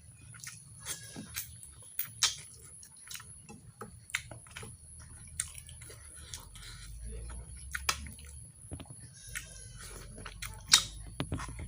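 Close-up mouth sounds of a person eating mutton curry with rice: wet chewing and lip smacks, a string of irregular sharp clicks with the loudest a little before the end.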